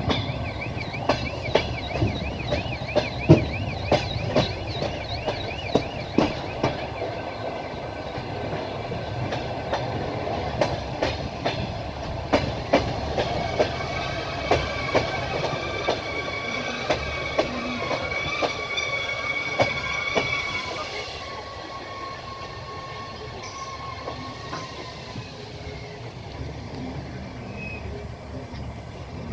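Train wheels clattering over rail joints in irregular knocks over a steady rumble, with a high wheel squeal from the rails. About two-thirds of the way through, the squeal and most of the knocking die away, leaving a quieter rumble.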